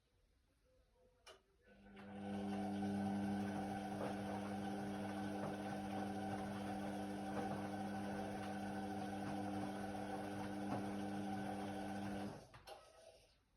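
Indesit WIDL 106 washer-dryer: after a click, a steady motor hum starts about two seconds in, holds at an even pitch for about ten seconds, then stops.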